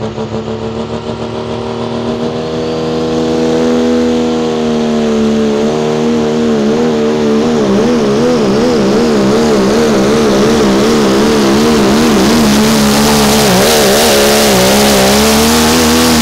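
Dodge Ram pulling truck's engine at full throttle under the load of the pull, getting louder over the first few seconds and then holding loud. From about six seconds in its pitch wobbles rapidly up and down as the revs surge and drop under load.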